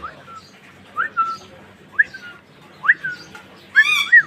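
Pet cockatiel whistling: short calls about once a second, each sweeping sharply up and then dropping to a held lower note, then a louder, warbling whistle near the end.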